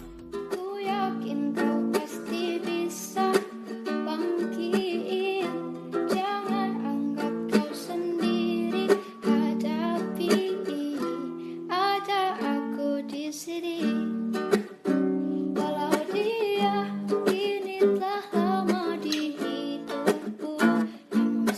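A woman singing a slow song in a sweet voice, accompanied by a plucked acoustic guitar.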